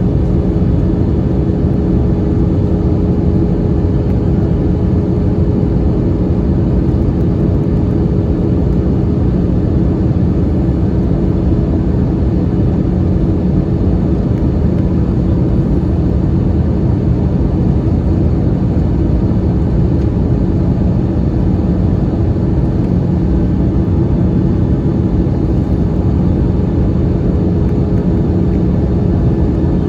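Steady cabin noise inside an Airbus A321-211 airliner in flight: an even rumble of airflow and its CFM56 turbofan engines, with a steady low hum and no change throughout.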